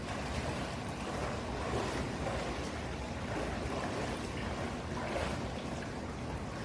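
Steady churning and splashing of water in a swimming pool, swelling slightly about two seconds in and again about five seconds in.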